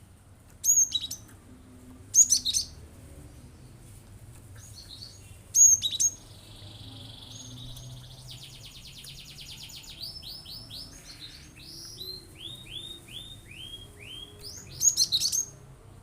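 Cinereous tit (gelatik batu) calling in rapid bursts. Four loud, sharp clusters of high notes are split by a buzzy trill, a fast rattle and a run of about eight down-slurred notes.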